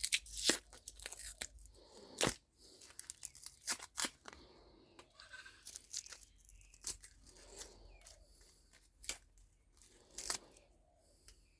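Hand work stripping scrap microwave parts: irregular tearing and scraping with sharp clicks and knocks.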